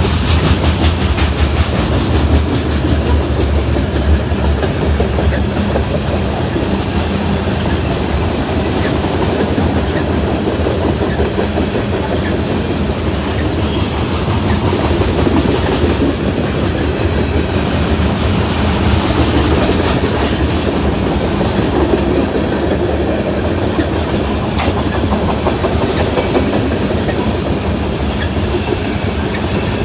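The cars of a freight grain train roll past with a steady rumble, their steel wheels clicking over the rail joints. The low rumble is heaviest in the first few seconds.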